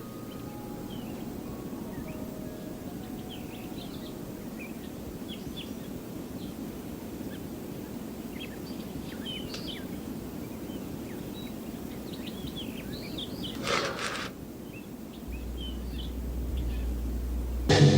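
Ambience of many small birds chirping over a steady hiss. About fourteen seconds in comes a brief loud rush of noise, and a low rumble sets in a second later.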